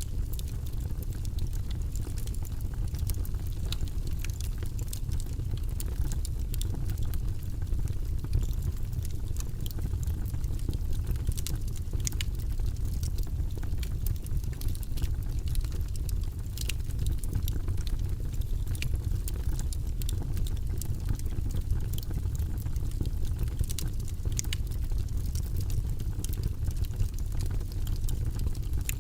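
Wood fire burning in a fireplace: a steady low rumble of flames with frequent sharp crackles and pops from the burning logs, scattered irregularly throughout.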